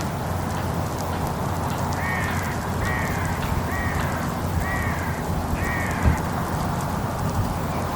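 A bird giving a series of about five short, harsh, down-slurred calls, roughly one a second, over steady wind-like background noise, with one brief thump near the end.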